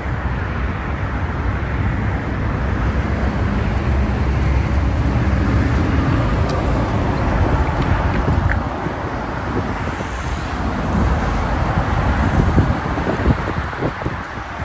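Highway traffic going past, heavy trucks among it: engines and tyres make a steady deep rumble. Wind buffets the microphone in short thumps near the end.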